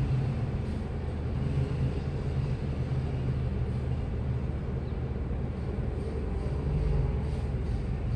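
Washing machine running with a steady low hum that wavers slightly, and a few faint light ticks near the end.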